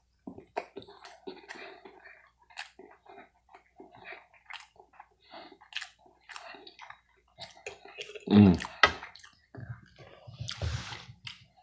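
Close-miked eating sounds of someone chewing soft pancakes and bacon: many small wet clicks and mouth smacks. About eight seconds in comes a short, louder voiced sound, and near the end a brief breathy rush.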